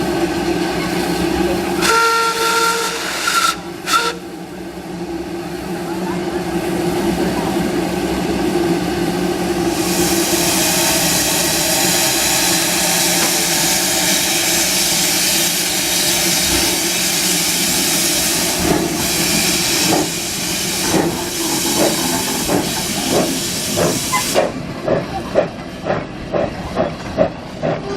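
Steam locomotive giving a short whistle and a brief second toot, then a long loud hiss of steam. Near the end it starts chuffing, the exhaust beats quickening as it pulls away.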